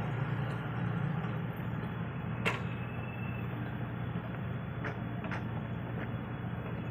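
Heavy-equipment diesel engine running steadily, with one sharp knock about two and a half seconds in and a few lighter clicks near the end.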